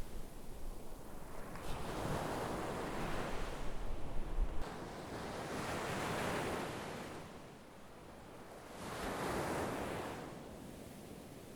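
Sea waves breaking and washing ashore, swelling and fading in three surges a few seconds apart. Wind buffets the microphone with a low rumble until it cuts off suddenly partway through.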